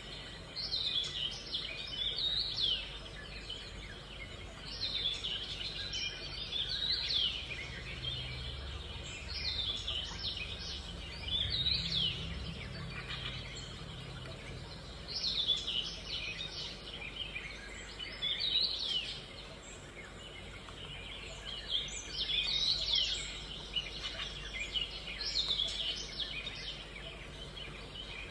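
Small birds chirping and twittering in short bursts of quick sweeping notes every few seconds, over a low steady hum.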